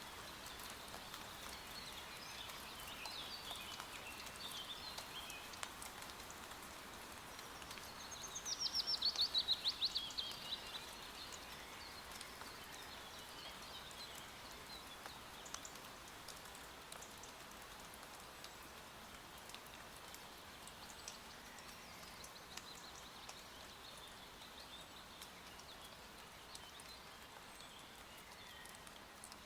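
Steady light rain hiss with forest birds calling throughout. About eight seconds in, one bird gives a loud, fast trill lasting about two and a half seconds, its notes falling in pitch.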